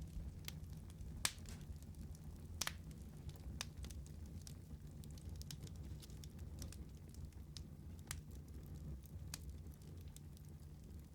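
Wood fire crackling: sharp, irregular pops and snaps, the loudest about a second in, over a soft low rumble of burning.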